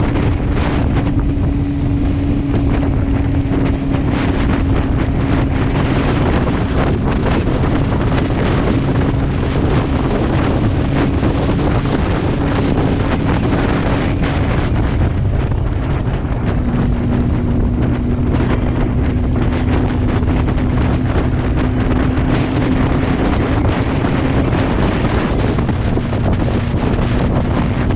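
Motorcycle engine running at a steady cruising speed under heavy wind rush on the microphone. The engine note drops about halfway through and then slowly climbs again.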